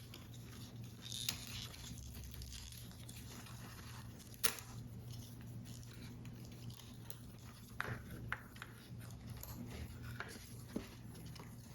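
Paper model parts being handled and worked: soft rustling with a few sharp clicks and taps, the loudest about four and a half seconds in, over a steady low hum.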